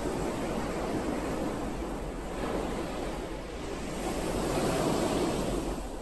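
Ocean surf: a steady wash of waves that swells and eases, with a fuller swell in the second half.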